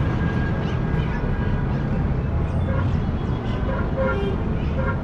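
Busy city street traffic: a steady low rumble of engines and tyres, with a faint thin high tone that fades out about a second and a half in.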